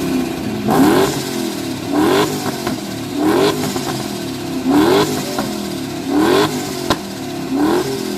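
Car engine revved repeatedly through a loud modified exhaust: six quick throttle blips, roughly one every second and a half, each a short rising pitch. There is a single sharp crack about two-thirds of the way in.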